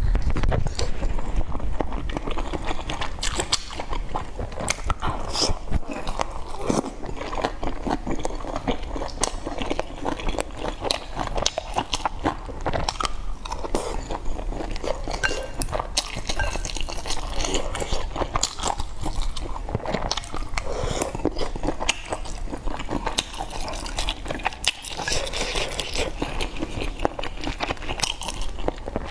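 Close-miked mouth sounds of a person chewing and eating hot-pot food, a dense run of short clicks and smacks.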